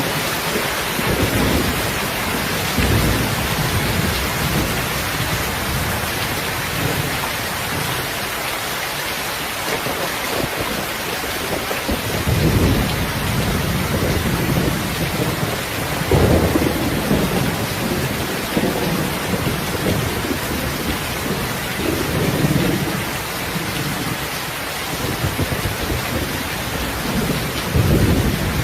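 Steady heavy rain, with low rumbles swelling up briefly every few seconds.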